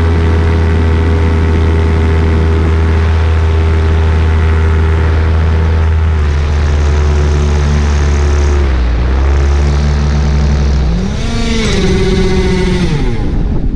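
Paramotor engine running at steady power, its pitch sagging twice and then surging up and down before dying away near the end: the engine losing power and quitting in flight.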